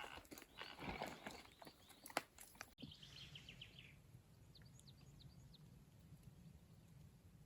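Near silence: a few faint knocks and clicks, then after an abrupt cut a quick run of faint high bird chirps over a low steady hum.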